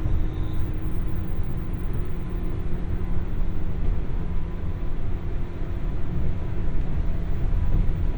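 Interior running noise of a JR West 201-series electric train motor car (MoHa 201): a steady low rumble of wheels on rail with a faint steady hum over it.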